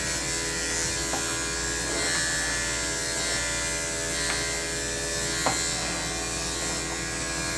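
Electric dog grooming clippers running steadily with a constant buzz, with a couple of faint clicks.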